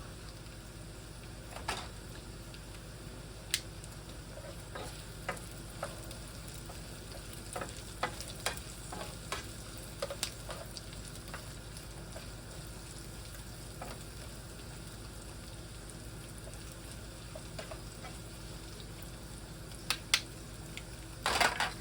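Eggs and hash browns sizzling steadily in a frying pan over a low steady hum, with scattered sharp clicks and a cluster of louder clicks near the end.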